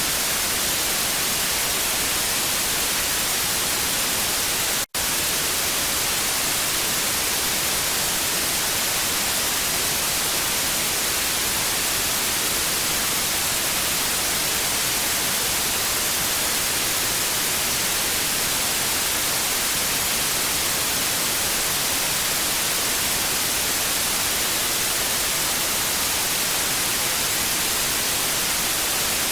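Steady TV static hiss, strongest in the highs, with a split-second dropout about five seconds in.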